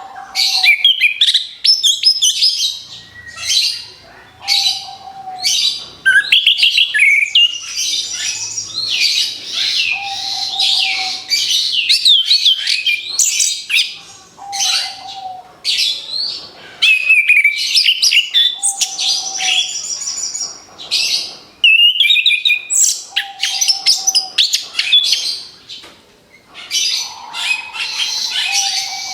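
Orange-headed thrush (anis kembang) singing a fast, nearly unbroken run of varied high chirps, trills and whistled phrases in rapid-fire bursts. A short, lower steady note recurs about every four to five seconds.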